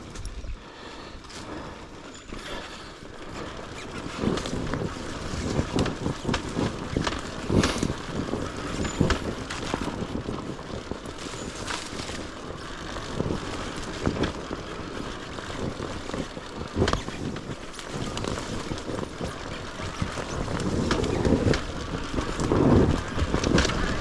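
Dirt bike coasting down a steep trail with its engine switched off and left in gear: an uneven rumble of tyres over dirt and roots, with scattered knocks and wind on the microphone, growing louder near the end.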